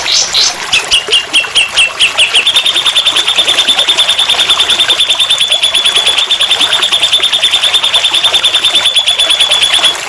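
Recorded songbird song used as a masteran (training song): a few lower notes, then a long, fast, even trill of high notes at one pitch, about ten a second, that stops near the end.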